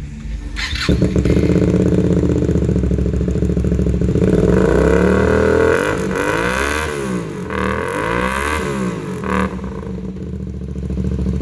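2016 Hyosung GT250R's 250 cc V-twin starting about a second in and then idling. Its revs climb, and it is blipped twice with rising and falling pitch before settling back to a steady idle.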